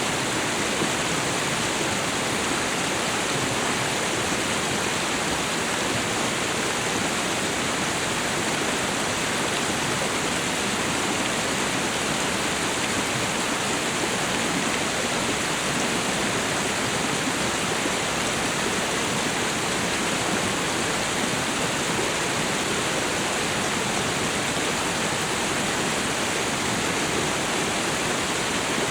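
Waterfall and river water rushing in a steady, unbroken wash of noise.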